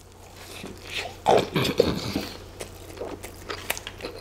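A person chewing a big bite of a double cheeseburger, close to the microphone: wet smacking and clicking mouth sounds, coming irregularly.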